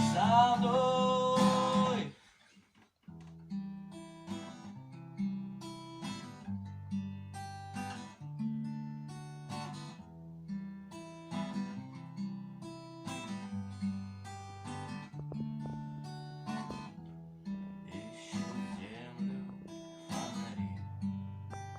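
Acoustic guitar playing a picked accompaniment of bass notes and chords. A held note stops about two seconds in, there is a second's pause, and then the guitar picks up again.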